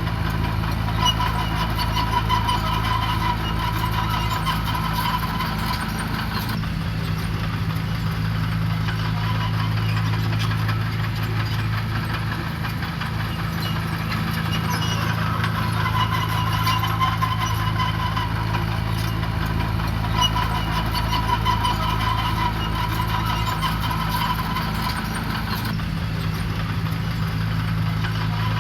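Diesel engine of heavy construction machinery running steadily, its low note shifting a little a few seconds in and again near the end, with a higher whine coming and going over it.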